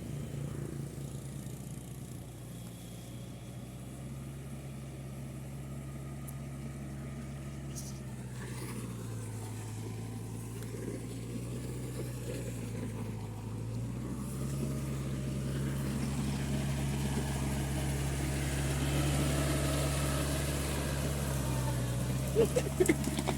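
Engine of a rice-field plowing machine running steadily. Its pitch drops about nine seconds in and rises again a few seconds later, as the load or throttle changes, and it grows louder toward the end. A few sharp clicks come near the end.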